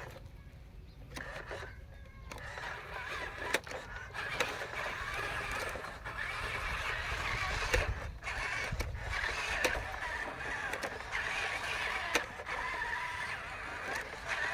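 Small electric motors and plastic gearboxes of Huina RC construction models whirring, the pitch wavering as they drive and work, with scattered sharp plastic clicks and knocks.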